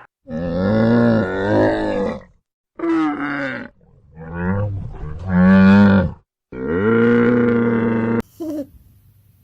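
Cattle mooing: a run of about four long, low moos, each a second or two, with short breaks between them.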